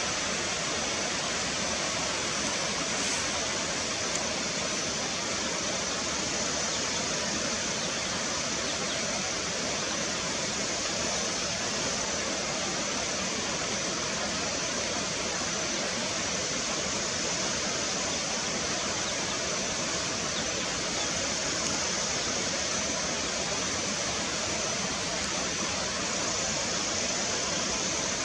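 Steady rushing of running water, even and unbroken, with a thin steady high-pitched tone above it.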